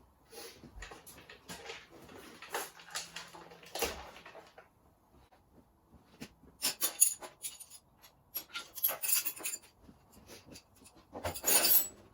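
Hand work on motorcycle engine wiring and electrical parts: irregular clicks, knocks and rubbing scrapes, with short pauses between them and the loudest clatters about seven seconds in and near the end.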